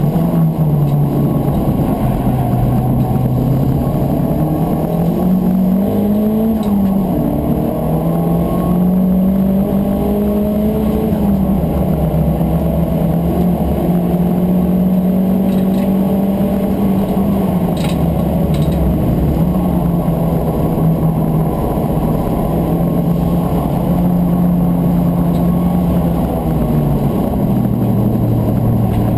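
Turbocharged VW Corrado race car's engine heard from inside the cabin at racing speed. Its pitch climbs and drops back at each gear change and holds a steady high note for long stretches, then falls sharply near the end as the car slows for a corner.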